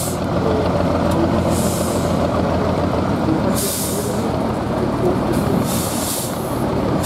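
Competition truck's diesel engine running steadily, with four short hissing bursts spread through it.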